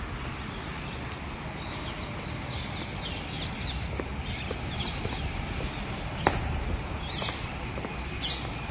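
Birds chirping on and off over a steady low outdoor rumble. A single sharp click sounds a little over six seconds in.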